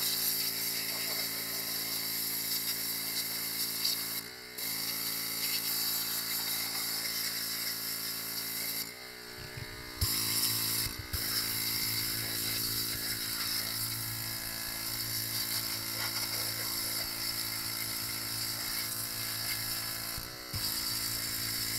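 Electric pressure washer (jet wash) running, its motor whining under a steady hiss of water spray as it rinses loosened grease off a car engine. It cuts out briefly a few times.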